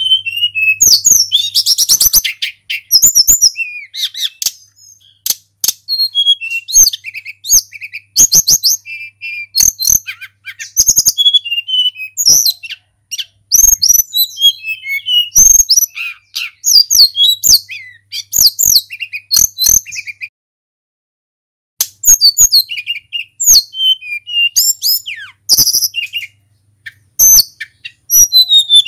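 Tledekan gunung singing loudly: quick runs of high whistled notes and trills repeated in phrases with short pauses, broken by a silence of about a second and a half about two-thirds of the way through.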